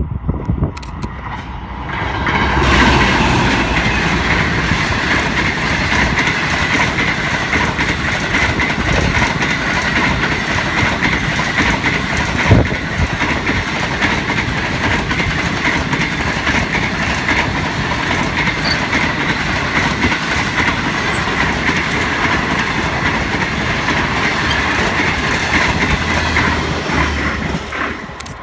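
A train passing close by, its locomotives and wagon wheels running steadily on the rails. It builds about two and a half seconds in and fades near the end, with one sharp bang about halfway through.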